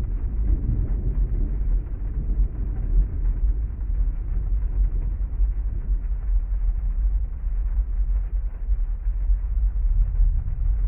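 Heavy thunderstorm rain ambience: a steady, muffled wash of rain over a deep low rumble, with a swell of rolling rumble in the first few seconds.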